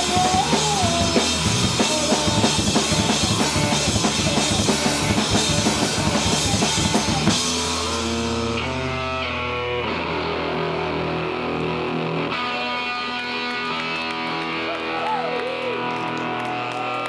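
Live rock trio playing loud and fast, with drum kit and guitar. About seven seconds in, the drums stop and held guitar tones ring on, a few of them sliding in pitch.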